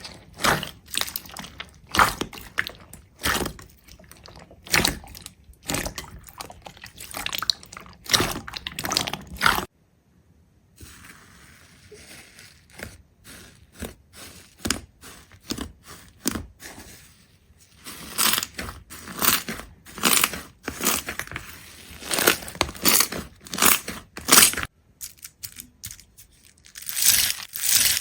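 Irregular crunching and crackling, a quick run of crisp crackles with louder crunches among them. It stops abruptly about ten seconds in and again about 25 seconds in, then starts again after each break.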